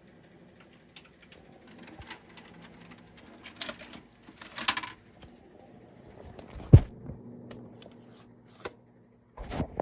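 Scattered clicks and knocks in a small room, with a heavy thump a little before seven seconds in and another burst of knocks near the end.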